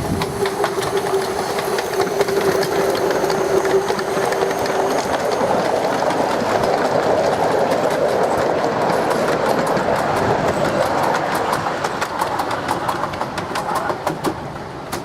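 Miniature steam train running along the track, its wheels clicking over rail joints in a dense string of clicks through the second half. A steady held tone sounds for the first five seconds or so.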